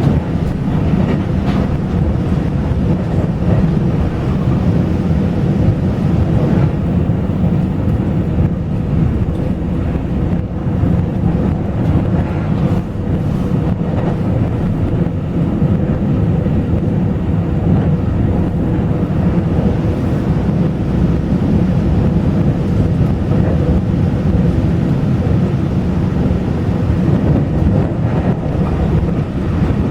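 Taiwan Railway local express passenger train running along the line, heard from inside the carriage as a loud, steady rumble of wheels on rail.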